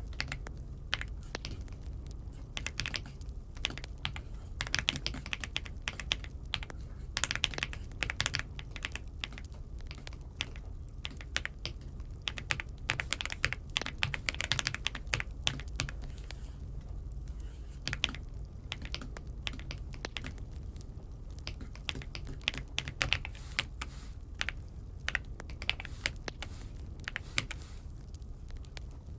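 Typing on an Aula F75 mechanical keyboard: uneven runs of key clacks broken by short pauses, over a steady low hum.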